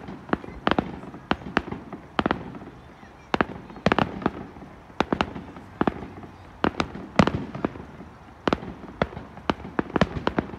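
Fireworks display: aerial shells bursting in quick, irregular succession, a sharp bang roughly every half second, with the loudest about seven seconds in.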